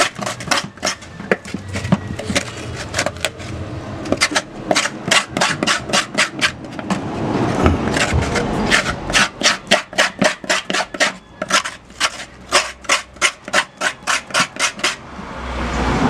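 A cut-down metal pot spoon scraping the inside of a halved calabash gourd shell, clearing out the wet pulp and seeds. The strokes are quick and rhythmic, about four a second, thinning out for a few seconds in the middle, and stop shortly before the end.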